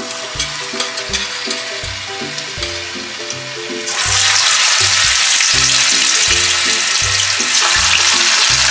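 Firm tofu cubes sizzling as they are put into hot cooking oil in a frying pan. The sizzle gets much louder about four seconds in. Background music with a steady bass beat plays underneath.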